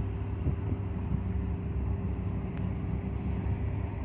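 Diesel freight locomotives running, heard as a steady low rumble with a faint constant hum over it.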